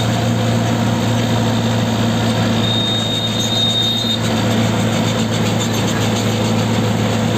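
Tractor diesel engine running steadily while driving along the road, a deep, even drone. A faint high tone sounds briefly about three seconds in.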